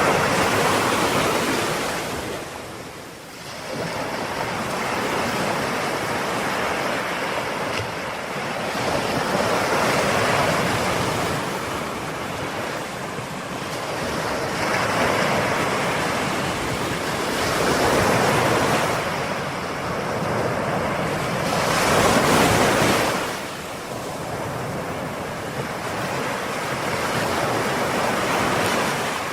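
Ocean waves breaking and washing on the shore in a continuous rush, swelling and easing every few seconds, the biggest surge about three quarters of the way through, with some wind noise.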